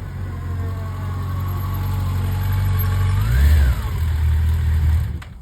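Yamaha FJR1300's inline-four engine running at low speed, growing gradually louder. About three and a half seconds in, a brief throttle blip makes the pitch rise and fall. The sound drops away suddenly near the end.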